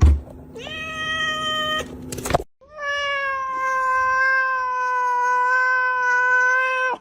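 A thump, then a cat meowing: a short meow of about a second, then one long, drawn-out meow of about four seconds at a nearly steady pitch that cuts off abruptly.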